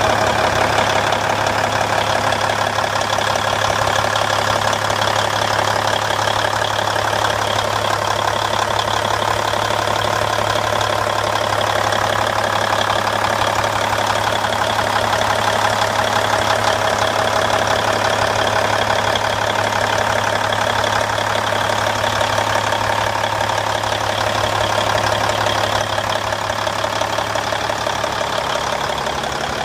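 A Cummins N14 525 hp inline-six diesel in a 2003 Kenworth T800H idling steadily and evenly.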